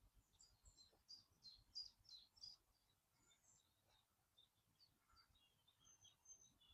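Faint small birds chirping, with a quick run of about five short, high notes a second in, then scattered chirps.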